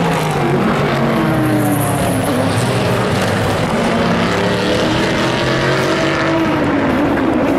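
Several racing car engines at once, their pitch rising and falling as cars accelerate and pass, with one engine note falling away near the end.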